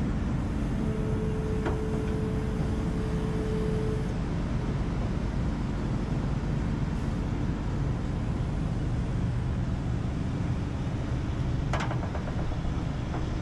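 Kobelco SK210 excavator's diesel engine running steadily as the machine is worked onto a trailer. A steady whine lasts a few seconds near the start, and there is a single clank near the end.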